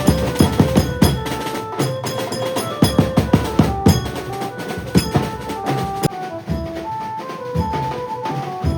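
Maharashtrian banjo band playing: an electric banjo melody in held notes over loud, fast drumming. The drumming is dense at first and thins out about six seconds in while the melody carries on.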